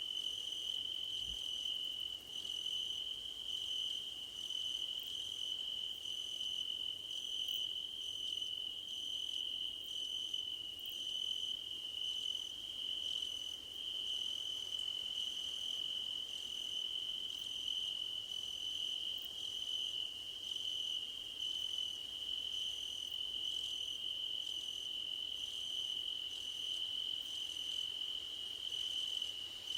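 Crickets chirping in a steady, unbroken high trill, with a second, higher insect call pulsing a little faster than once a second.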